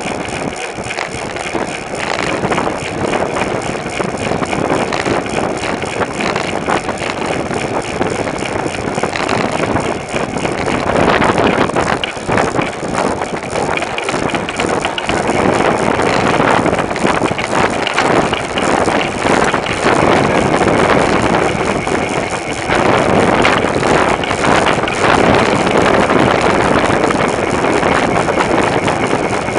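Wind rushing over the microphone of a camera mounted on a moving bicycle, a loud, uneven rush that swells and eases, mixed with the bike's riding noise.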